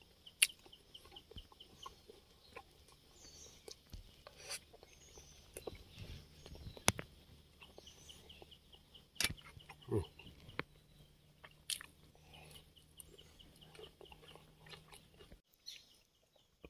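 A bird calling in quick runs of short, evenly repeated high notes, over scattered clicks and knocks and a faint low hum. The sound cuts off suddenly near the end.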